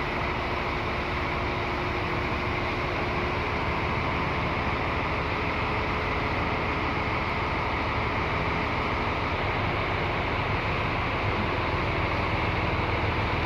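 Scania K360iB bus's diesel engine idling steadily while parked, an even, unchanging hum.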